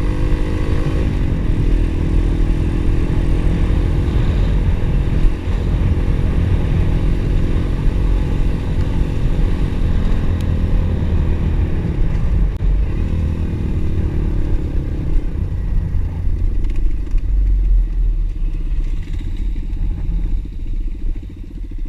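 Pit bike engine running under way, its pitch dropping and rising with the throttle over a steady low rumble.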